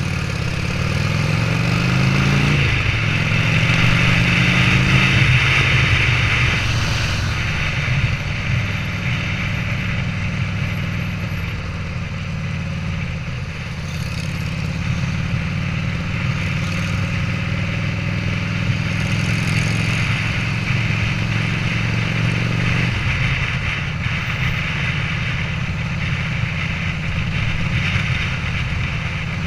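The V-twin of a customised 1987 Harley-Davidson Sportster, bored out to 1250 cc, accelerating hard as the bike pulls away. Its pitch climbs twice in the first five seconds and drops at each gear change, then it runs at a steady cruise, with a change in the engine note a little past two-thirds of the way through.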